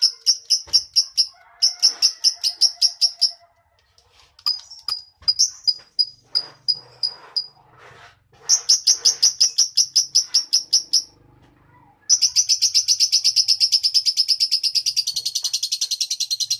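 A lovebird singing: runs of rapid, evenly repeated sharp high chirps, a softer, more broken stretch in the middle, then from about twelve seconds in a long, fast rattling trill that runs unbroken for over four seconds.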